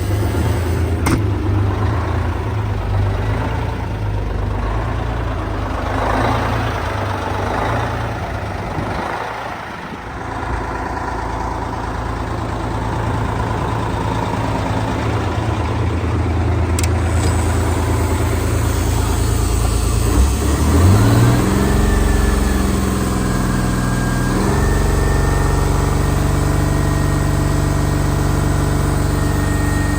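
Detroit Diesel 6V92 turbo two-stroke V6 in a Kenworth truck, running at idle shortly after a cold start, then revved up about two-thirds of the way through and held at a raised speed, stepping up once more and holding steady near the end.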